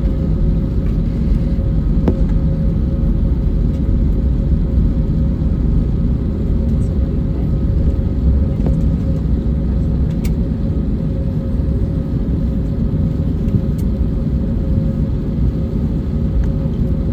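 Steady low rumble inside the cabin of an Airbus A321neo on the ground before takeoff, engines idling, with a constant hum and a few faint ticks.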